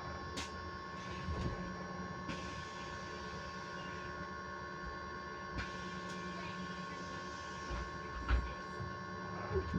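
Electric bus giving off a steady whine at a constant pitch, several fixed tones held together over low road rumble. A short thump comes near the end.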